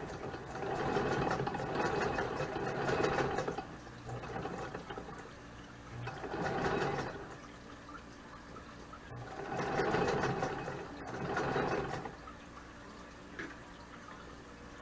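Vintage Singer sewing machine stitching in three runs of a few seconds each, with pauses between: a seam being sewn in short spurts.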